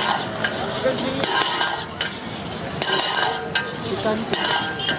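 Chilli chicken frying with a steady sizzle while a metal ladle stirs it in the pan, clinking and scraping against the metal about once a second.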